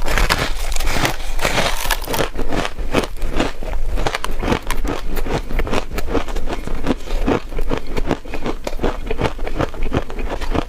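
Freezer frost being bitten and chewed close to the microphone: a dense, continuous run of crisp crunches and crackles.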